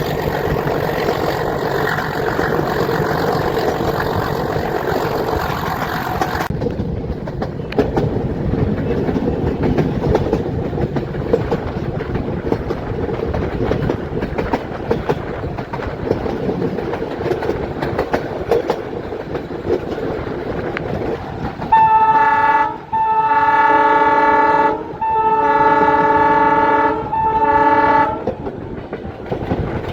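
Metre-gauge train running, a steady noise of the moving coaches. About two-thirds of the way in, the YDM-4 diesel locomotive's horn sounds four blasts, a short one then three longer ones, over about six seconds.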